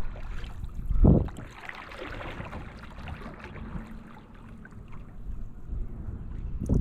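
Kayak paddle strokes swishing through calm water, with wind rumbling on the microphone; louder strokes about a second in and at the very end.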